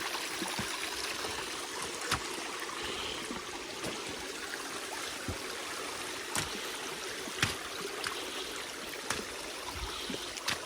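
Shallow rocky creek running and trickling over stone, a steady rush of water, with a few short sharp clicks scattered through.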